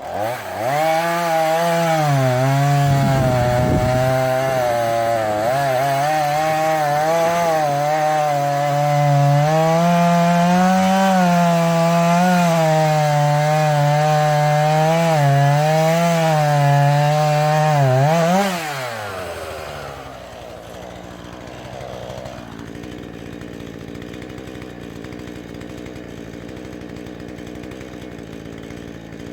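Husqvarna 440e two-stroke chainsaw revved up and held at full throttle for about eighteen seconds, its pitch dipping and recovering as the chain cuts wood. The revs then drop and the saw settles to a steady idle.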